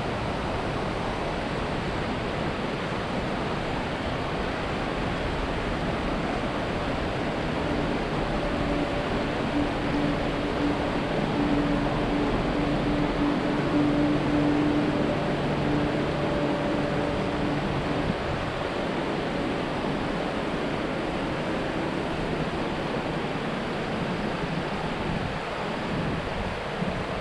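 Steady rush of river water and wind noise. From about eight seconds in, a low, steady-pitched hum swells and then dies away around eighteen seconds: a train crossing the railway bridge overhead.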